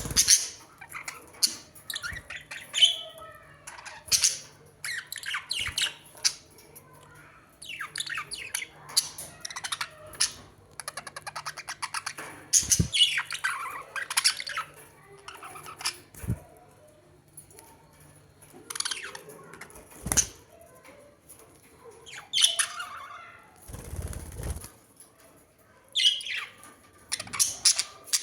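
Birds squawking in a string of harsh calls with shorter chirps between, one a fast rattling run about ten seconds in. A brief low rumble comes about three quarters of the way through.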